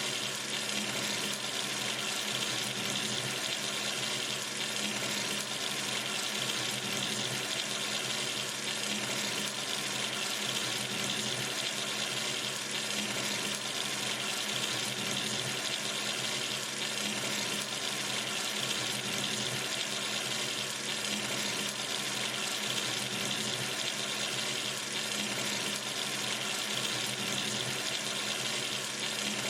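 Sink tap running steadily, water splashing into the basin in an even, unbroken hiss.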